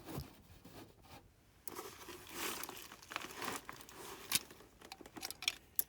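Rustling and crackling handling noise, with a few sharp clicks near the end.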